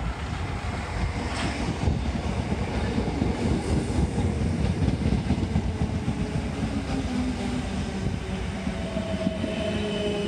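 Electric multiple unit train running into a station platform and slowing, its wheels rumbling on the rails. Steady whining tones come in near the end as it comes to a stop.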